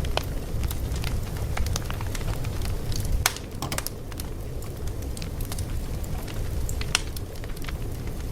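Fire crackling: irregular sharp pops and snaps over a steady low rumble, with a few louder pops.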